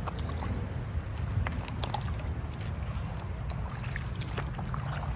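Shallow creek water running, with scattered small splashes and knocks from wading over a steady low rumble.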